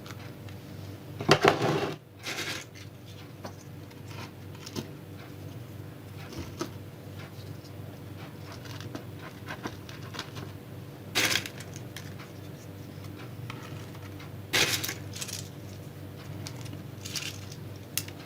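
Hazelnut shells being set down and turned over by hand among small stones on potting soil: a few light clicks and clatters, the loudest about a second in, at eleven seconds and at fifteen seconds.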